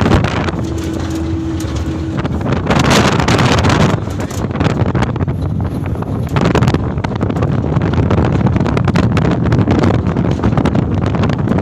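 Canter truck on the move: a steady rumble of engine and road noise, with wind buffeting the microphone in gusts. A brief steady low tone sounds over it near the start.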